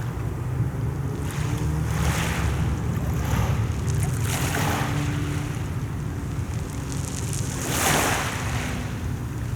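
Sea waves washing onto the shore in repeated hissing surges, four or so, the loudest near the end, over a constant low rumble of wind buffeting the microphone.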